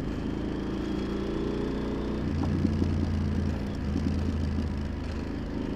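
Yamaha XT1200Z Super Ténéré's parallel-twin engine running steadily as the bike rides along. About two seconds in the engine note changes and its low rumble grows stronger.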